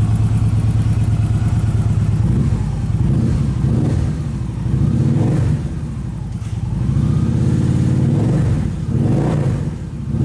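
Victory Vision Tour's 1731cc Freedom 106 V-twin engine running steadily, then revving, its engine speed rising and falling several times from about three seconds in.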